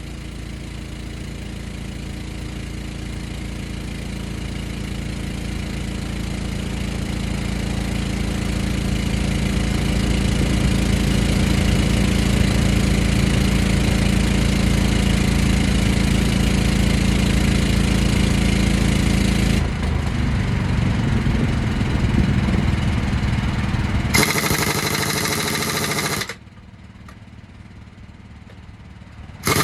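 Engine running steadily and slowly growing louder. The sound changes abruptly about two-thirds of the way through, then drops to a quieter stretch near the end.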